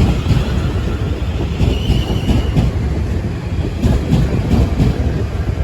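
Train running on the tracks close by, a loud steady low rumble, with a brief high squeal about two seconds in.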